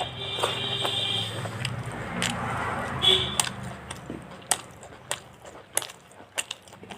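Close-miked eating of fried chicken: biting and chewing, with sharp crisp clicks of crunching from about halfway on. A steadier background sound with a few held tones runs under the first half.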